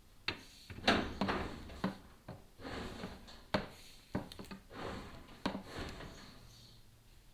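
Chimney inspection camera and its cable knocking and scraping against the inside of the flue as it is lowered, a run of irregular bumps, clicks and rubbing.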